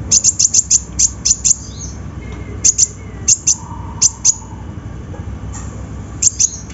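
Sunbird (konin, 'kolibri ninja') calling: sharp, very high chips, first in a fast run and then in scattered pairs and singles.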